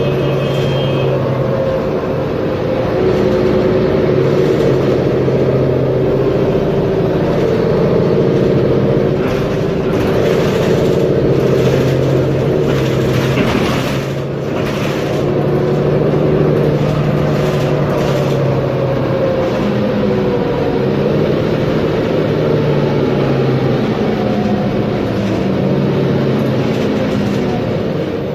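Mercedes-Benz Conecto G articulated city bus under way, its OM457LA six-cylinder diesel engine running steadily, with the engine note falling slowly in the second half. A few brief knocks or rattles sound around the middle.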